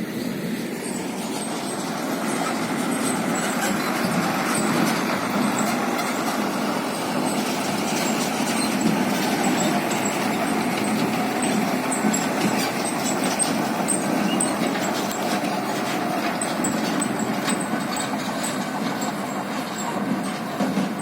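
Heavy dump truck running, a steady rumbling noise that builds over the first few seconds and then holds, with scattered high squeaks and rattles from the truck.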